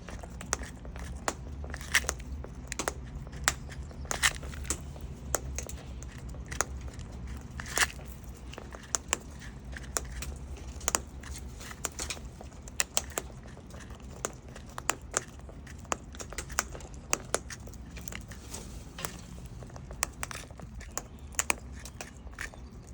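Sulphur-crested cockatoo biting and crunching food with its beak: irregular sharp cracks and crackles, a few every second.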